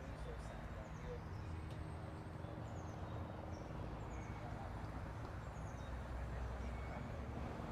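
Small birds chirping, short high calls that slide downward in pitch, repeated every second or so. Under them runs a steady low rumble.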